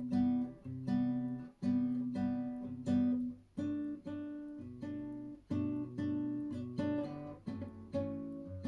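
Solo acoustic guitar playing a bossa nova-style pattern of plucked chords, a new chord struck about every half second, with no singing.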